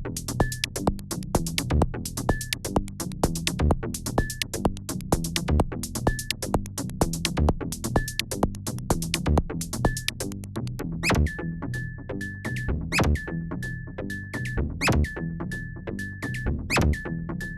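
Live electronic techno from Korg Volca groove boxes (Volca Drum, Volca Bass, Volca FM): a drum machine beat of fast hi-hat ticks and regular kicks over a synth bass line. About eleven seconds in, a further synth part joins with a rising sweep roughly every two seconds and a short high note repeated more often.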